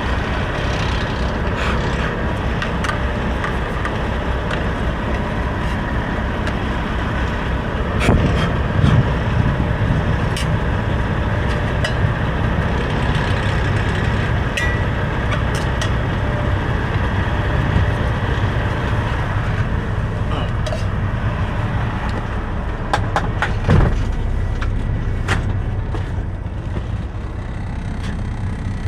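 Semi truck's diesel engine idling steadily, heard inside the cab as a constant low rumble, with a few short knocks about a third of the way in and again later.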